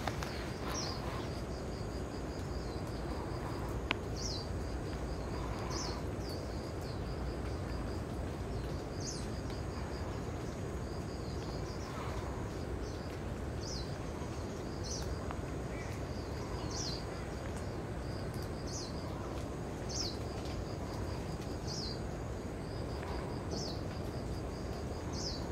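A bird repeating a short, high, falling call about every one to two seconds, over a faint steady high tone and a low background rush.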